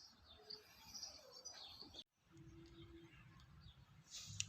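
Faint, scattered high bird chirps over near silence, with a brief dead gap about two seconds in and a few louder chirps near the end.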